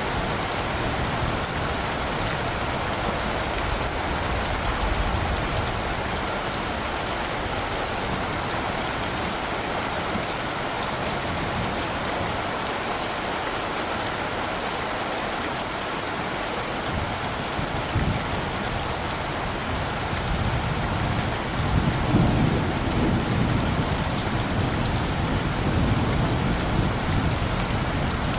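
Steady rain falling, with a low rumble of distant thunder building about three quarters of the way through.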